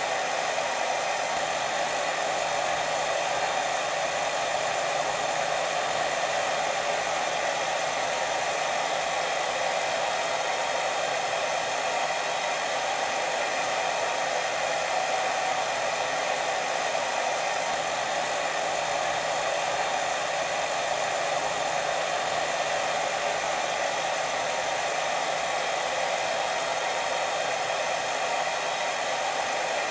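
Steady white noise for sleep: an unbroken hiss that holds the same level throughout and is strongest in the middle range.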